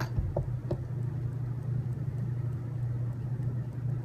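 Steady low hum with two faint clicks in the first second as small robot-kit parts are handled.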